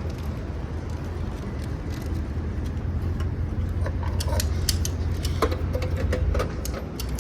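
Low, steady engine rumble with scattered sharp clicks and light metallic clinks, the clinks clustered in the second half.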